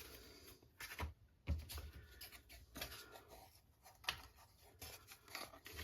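Faint handling of small wooden kit parts at a workbench: a few light, scattered knocks and clicks with soft rubbing between them.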